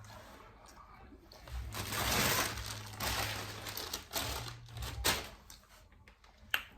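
Close-miked eating sounds: chewing and mouth smacking on barbecue ribs, with sharp clicks and a stretch of noisy rustle in the middle.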